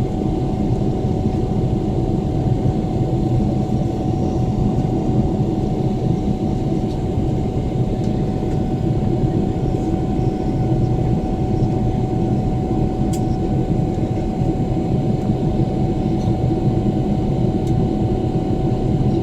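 Steady airliner cabin noise in flight: a constant low drone of jet engines and rushing air heard from inside the cabin, with a steady hum tone over it.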